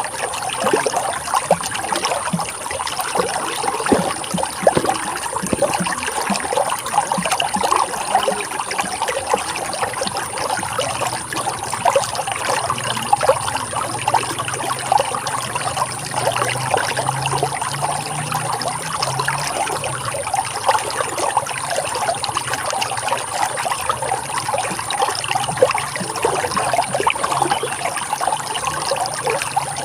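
Running water flowing and splashing steadily, an unbroken trickling rush.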